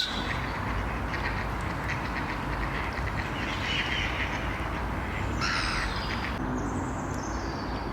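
Waterbirds on the lake calling faintly, with a few short calls and a thin high call near the end, over a steady background rumble.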